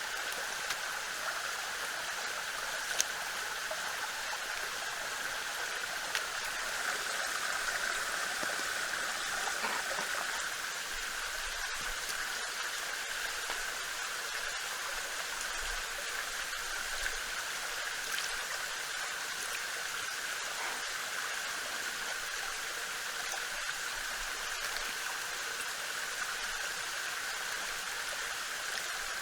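Steady, even rushing hiss like running water, with a few faint sharp clicks.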